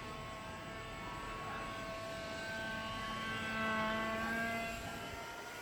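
Radio-controlled model aeroplane's motor and propeller whining in flight, the pitch drifting slightly, louder for a moment a little past halfway.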